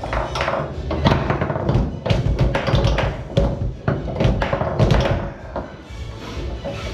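Foosball game in play on a Tornado table: quick, irregular knocks and taps of the ball being struck by the men and banging around the table, over background music.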